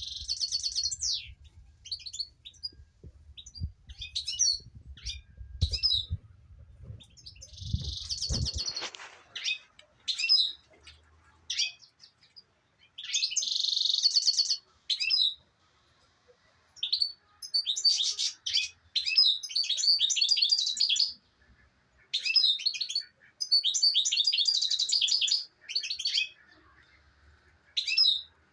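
Small songbird singing: quick high chirps between long, fast trilled song phrases, with short pauses between them. A low rumble underlies the first eight seconds or so and cuts off suddenly.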